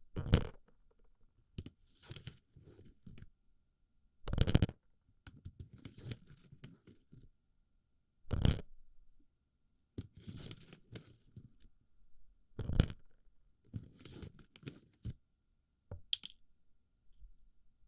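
Plastic BB pellets rattling, clicking and scraping right against an ear microphone as they are packed into the ear. A loud crunch comes about every four seconds, with softer clicks and rustles in between.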